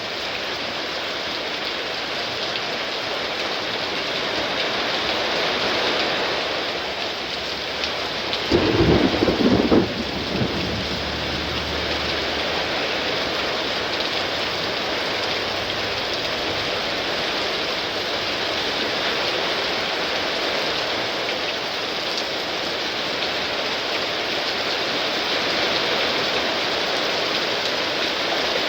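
Heavy rain pouring steadily in a thunderstorm. About eight and a half seconds in, a sudden loud clap of thunder breaks through, followed by a low rumble that dies away over the next few seconds.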